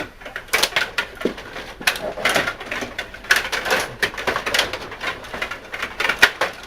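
Stiga rod hockey table in play: rapid, irregular clicking and clacking of the rods being spun and slid and the plastic players and puck knocking about the table.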